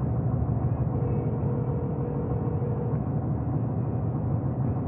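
Car cabin noise while driving: a steady low road and engine rumble. About a second in, a steady telephone ringback tone sounds for about two seconds, a call ringing through before it is answered.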